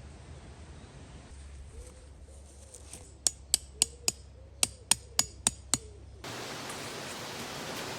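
A hammer striking a tent peg: nine sharp, ringing strikes in two quick runs of four and five, about three a second. Near the end the sound cuts abruptly to a steady rushing hiss.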